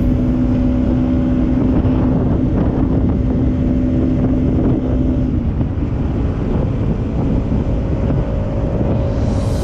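Bajaj Pulsar NS200's single-cylinder engine running under way with heavy wind buffeting on the helmet or bike-mounted camera microphone. Its steady engine note drops away a little past halfway.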